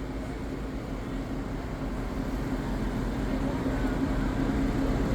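A motor vehicle engine running with a steady low hum, slowly getting louder.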